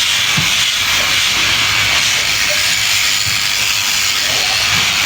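Electric sheep shears running steadily, a constant high-pitched hiss of the shearing handpiece at work.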